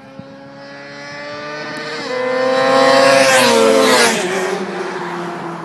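A 600cc inline-four sportbike approaching at high revs, getting steadily louder, then passing close by with a sharp drop in pitch about four seconds in and fading away.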